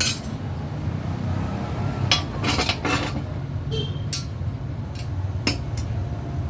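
Irregular sharp metallic clinks and taps, about eight in all and clustered between two and three seconds in, from metal pieces and hand tools being handled while fabricating a muffler by hand, over a steady low hum.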